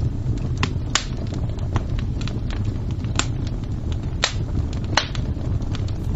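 Campfire crackling: a steady low rumble of burning with sharp irregular pops and snaps, the strongest about a second in and a few more near the middle and end.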